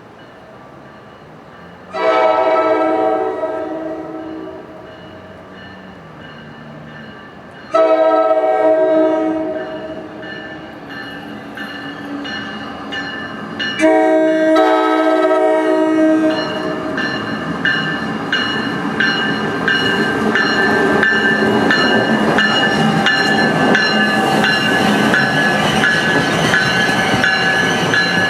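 Locomotive air horn sounding three long blasts, several notes at once. Then the train draws closer, its wheels clacking over the rail joints and the noise building.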